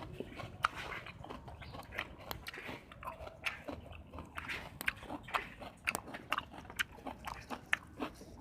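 Someone biting and chewing food, with many short, irregular crunches.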